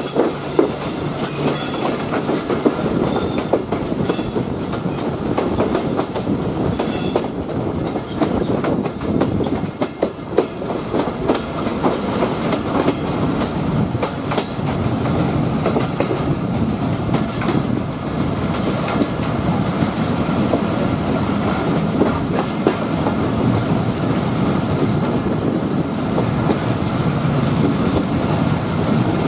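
Passenger train running at speed, heard from an open coach window: a steady running noise with wheels clacking over rail joints and points, and brief high wheel squeals in the first several seconds.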